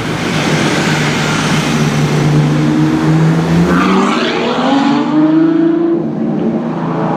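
A high-performance car's engine accelerating, its note rising in pitch, loudest around the middle.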